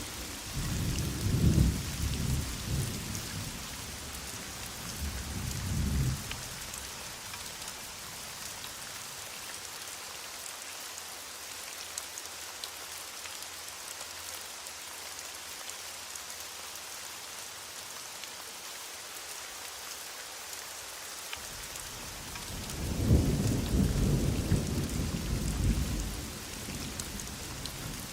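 Heavy rain falling steadily, with rumbles of thunder twice: once in the first few seconds and again about three-quarters of the way through.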